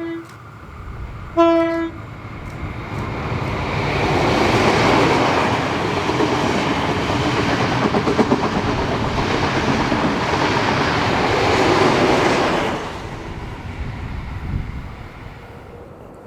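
Diesel-hauled train sounding its horn, a short toot then a louder blast, and then passing at speed with wheels clattering over the rail joints. The noise of the passing train fades away near the end.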